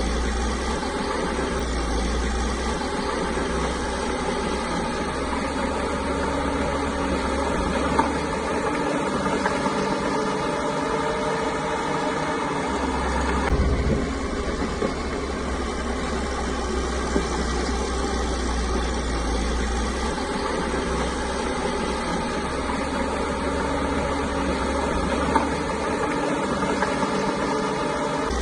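Caterpillar bulldozer's diesel engine running steadily, with a few short sharp knocks.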